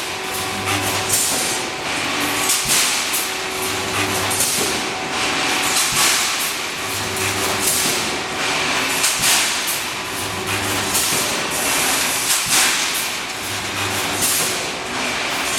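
Pneumatic resistance wire mesh welding machine running through its cycle. About every three seconds there is a low hum lasting under a second, with bursts of hissing air and metallic knocks in between.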